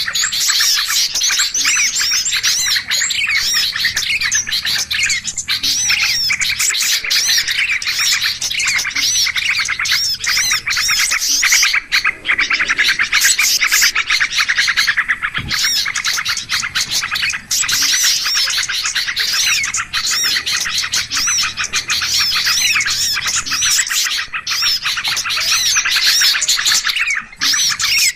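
A dense, noisy chorus of many small birds chirping and calling over one another without pause, a mix of quick twittering and rapid rising and falling whistles: a 'pikat ribut' bird-lure recording made to draw small birds in.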